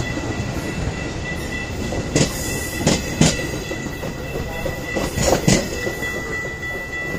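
Train rolling past: a steady rumble with wheels clacking over rail joints in pairs, and a steady high-pitched wheel squeal throughout.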